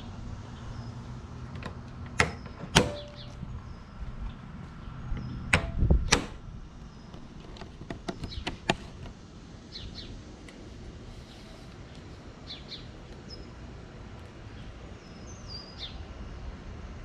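A handful of sharp clicks and knocks, loudest around two and six seconds in, over a low steady hum, with short bird chirps now and then in the second half.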